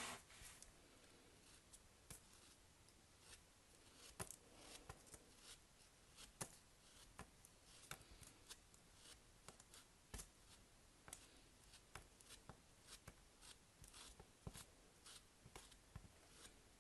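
Faint, irregular small clicks and crackles of soap and its packaging being handled and unwrapped by hand, one or two taps a second.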